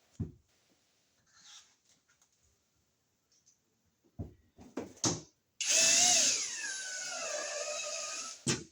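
Power drill/driver driving a screw to fasten a box to the wall: a few clicks of handling, then the motor runs for about three seconds with its pitch falling as the screw drives in, stopping just before the end.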